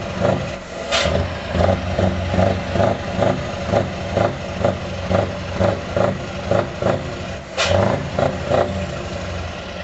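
V8 engine idling unevenly, its sound swelling and falling in a rhythmic lope about twice a second. A sharp crack is heard about a second in and again about seven and a half seconds in. The pulsing dies down near the end.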